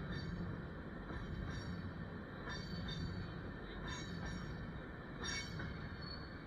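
Freight train cars rolling past with a steady rumble, and wheels giving a few short squeals.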